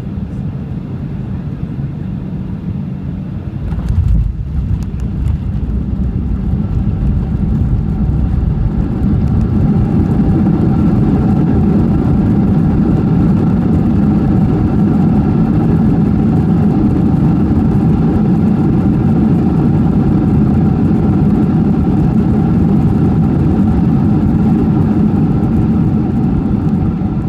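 A Boeing 737-800 touching down with a thump about four seconds in. Its CFM56-7B engines then go into reverse thrust, heard from the cabin as a loud steady rush with engine tones that builds over several seconds and eases off near the end.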